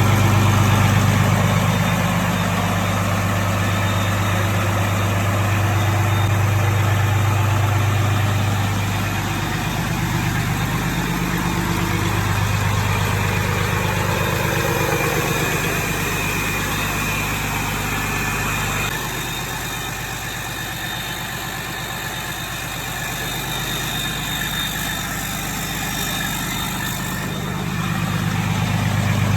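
Freshly overhauled Caterpillar C13 inline-six diesel engine idling steadily, somewhat quieter in the second half.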